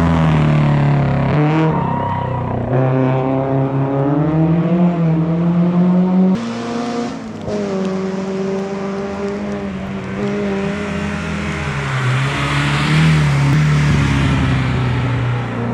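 Racing car engine revving hard under acceleration, its pitch climbing and dropping back again and again as it shifts gears, with a few abrupt jumps in the sound.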